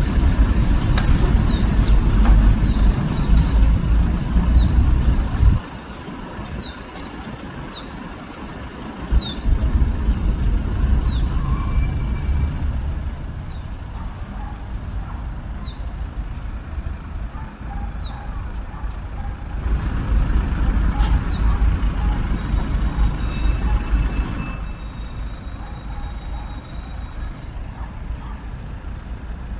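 A loud low rumble that cuts out suddenly about five seconds in and comes back a few seconds later, with a bird giving short, falling chirps over it every second or so.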